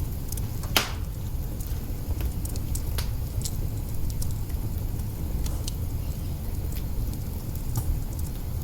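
Wood fire burning in an open hearth, crackling with scattered sharp pops over a steady low rumble; one louder pop comes about a second in.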